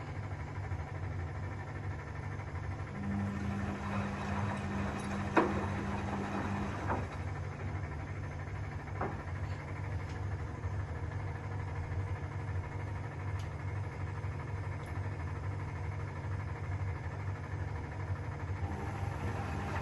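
Vintage Zanussi FLS-822CH washing machine running a 95 °C drum-clean cycle, with a steady low motor hum. A higher hum joins for a few seconds from about three seconds in. Occasional sharp clicks and knocks come through, the loudest about five seconds in.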